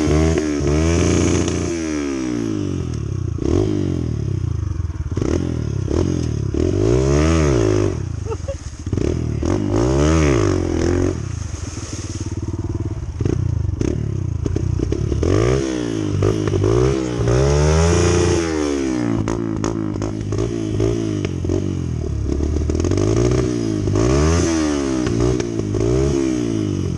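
Honda CT125's single-cylinder engine being ridden, its pitch rising and falling again and again as the throttle is worked, with rattles and knocks from the bike.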